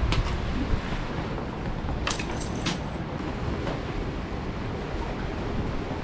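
Strong wind buffeting the microphone, a steady low rumbling noise, with a short cluster of sharp clicks about two seconds in.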